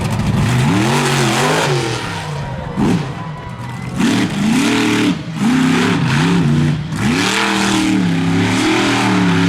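Monster truck's big-block engine revving hard in repeated surges, its pitch climbing and falling four or so times as the throttle is blipped and held.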